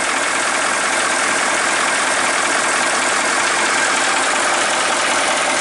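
Caterpillar 3208 V8 diesel in a 1977 International fire engine, idling steadily.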